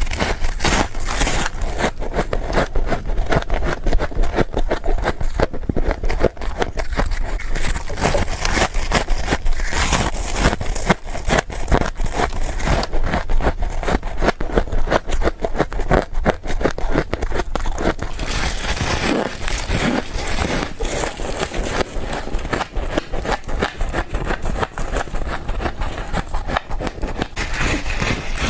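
Frost being bitten and chewed in quick succession: a dense, continuous crunching and crackling.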